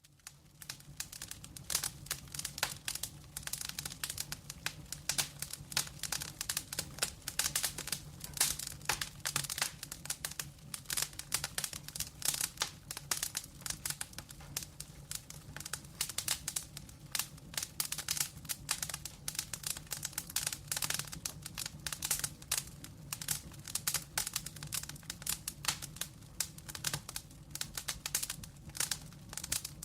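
Burning logs in a fireplace crackling and popping: a dense, irregular run of sharp snaps over a steady low hum, starting abruptly out of silence.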